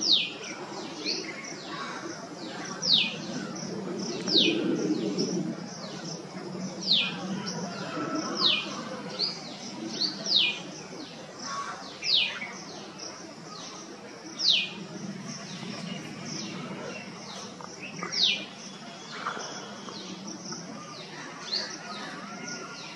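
A bird repeatedly gives short, high calls, each falling sharply in pitch, about one every second or two at uneven intervals, with fainter calls in between. A steady low hum runs underneath.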